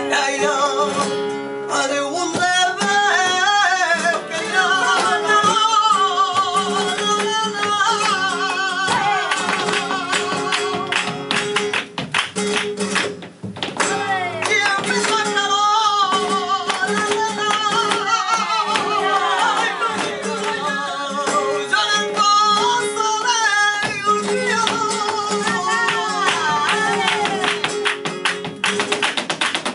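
Live flamenco in the soleá por bulerías style: a cantaor singing long, wavering, ornamented lines over flamenco guitar, with sharp percussive strikes throughout.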